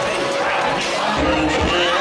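Party music playing loudly over a crowd's voices, with a bass beat coming in about a second in.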